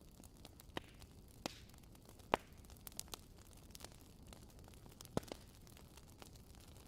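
Fire crackling in a fireplace: a low steady rumble and hiss with irregular sharp pops, the loudest about two seconds in and another about five seconds in.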